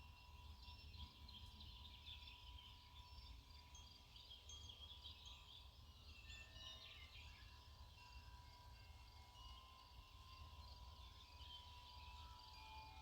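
Faint outdoor ambience near silence: scattered small bird chirps over a steady low rumble of wind or distant background noise.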